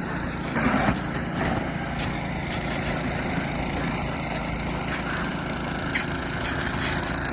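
Engine running steadily at an even speed, with a brief noisy burst about a second in.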